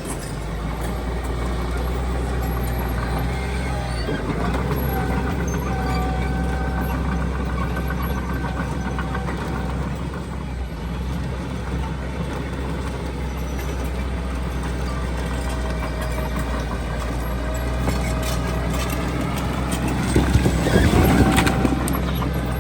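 Heavy diesel construction machinery, dump truck or bulldozer engines, running steadily with a deep drone. Near the end there is a louder burst of clatter, the loudest part of the stretch.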